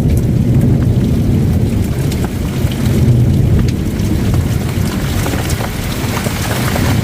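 Heavy rainstorm: a loud, steady deep rumble with many scattered sharp hits of falling drops or ice.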